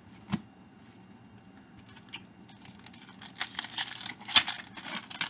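Crinkling and rustling of a trading-card pack wrapper being handled and opened, starting about halfway through and getting louder, after a single sharp click near the start.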